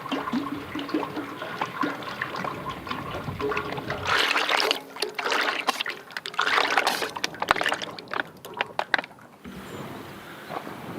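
Liquid splashing and trickling with crackling clicks, louder for a stretch from about four seconds in and cutting off suddenly near the end.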